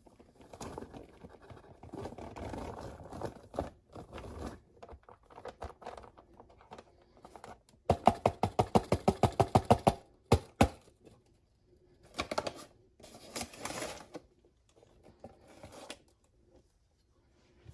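Cornstarch being handled, in scratchy, crunching bursts with short pauses between them, and a quick run of about six sharp crunches a second for two seconds near the middle.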